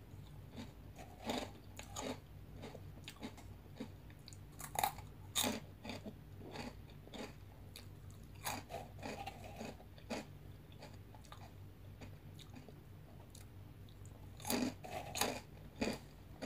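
A person biting and chewing crisp veggie straws (extruded vegetable snack sticks), in irregular crunches. The loudest crunches come about five seconds in and again near the end.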